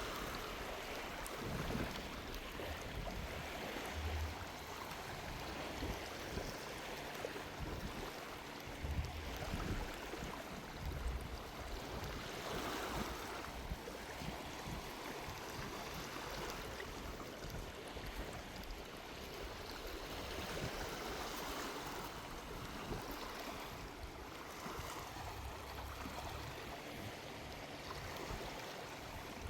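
Small waves washing up on a sandy beach, the surf swelling and fading every few seconds, with a few short low rumbles of sea breeze on the microphone.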